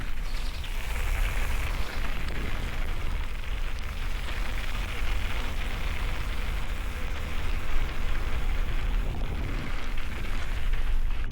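Mountain bike riding a wet trail: a steady low rumble of wind buffeting the camera microphone, with a continuous hiss of tyres and spray on wet ground.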